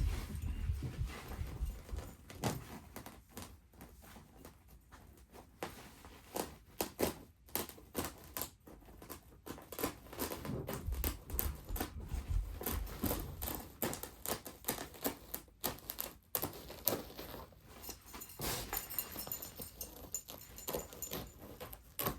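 A knife cutting through artificial grass backing: a long, irregular run of small crackling ticks and scrapes.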